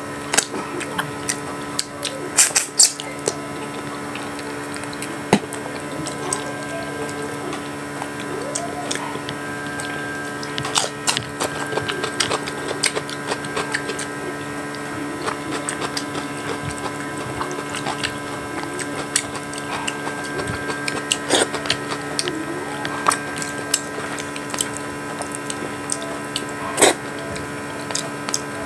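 Close-miked chewing and mouth smacks of a person eating by hand: irregular wet clicks and smacks, a cluster of louder ones about two to three seconds in, over a steady electrical hum.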